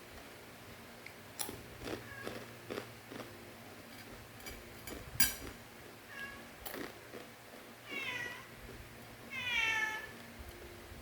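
Domestic cat meowing twice near the end, two drawn-out calls falling in pitch, the second louder. The cat is begging for food. Scattered short sharp crunches and clicks come before the meows.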